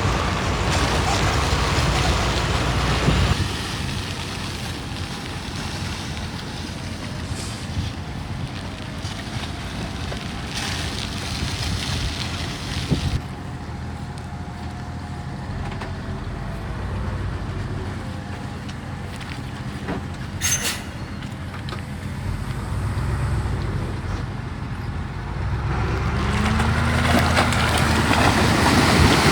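Diesel earthmoving machines working: a steady low engine rumble, louder for the first three seconds and again over the last few, with a short sharp hiss about two-thirds through and a brief rising whine near the end.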